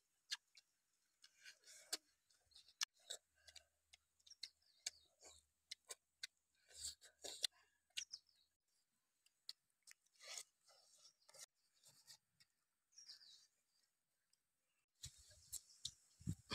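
Close-up eating sounds of people biting and chewing roasted bone-in chicken held in their hands: wet lip smacks and mouth clicks coming irregularly, with short pauses between bites.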